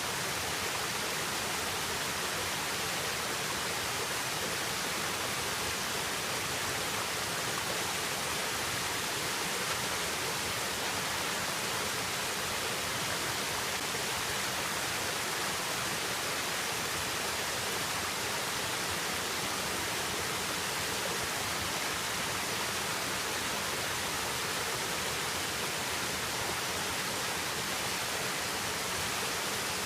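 Steady rushing water noise with an even, unbroken hiss.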